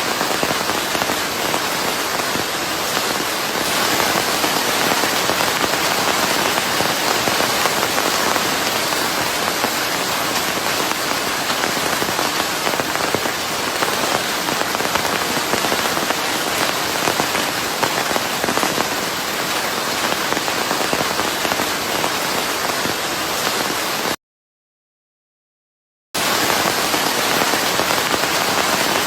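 Steady rain mixed with white noise: a dense, even hiss of falling drops. About 24 seconds in it cuts out to dead silence for roughly two seconds, then resumes.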